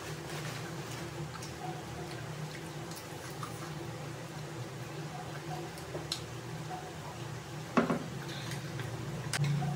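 Close-up chewing and wet mouth sounds of people eating, with scattered small clicks and one sharper knock about eight seconds in, over a steady low hum.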